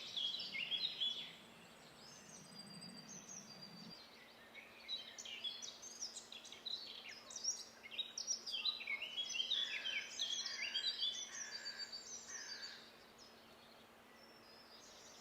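Small songbird singing a rapid, varied jumble of high chirps and trills: a short burst at the start, then a longer run of song through the middle that stops a couple of seconds before the end.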